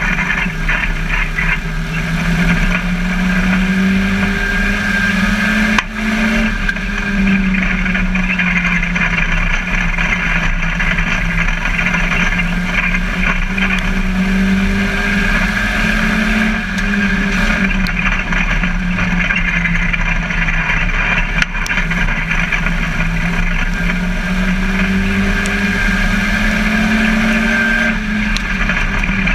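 Ministock race car's engine at racing speed, heard from inside the cockpit. It runs loud and continuous, its note climbing in long sweeps and dropping back about every ten to twelve seconds.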